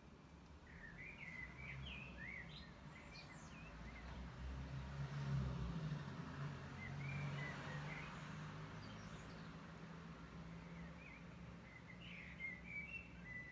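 Birds chirping in short high calls over the low rumble of distant road traffic, which swells and fades around the middle.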